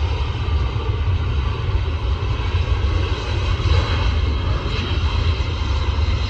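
Jet airliner engines running loud and steady: a deep rumble with a thin high whine over it.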